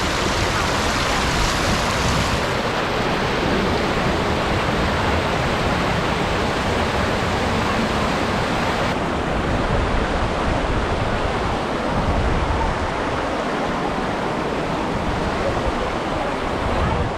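Steady, loud rushing noise with no clear pitch, its treble shifting abruptly twice.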